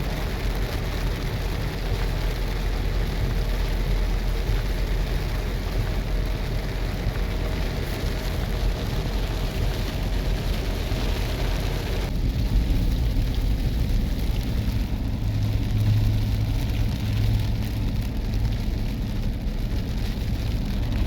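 Heavy rain pouring steadily, with the low rumble of a vehicle beneath it. About halfway through, the hiss of the rain drops and a low hum comes forward.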